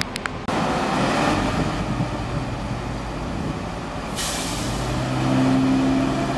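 Passenger train at a station platform: a steady rumble that jumps up about half a second in, then a sudden hiss of released brake air about four seconds in, followed by a steady engine hum.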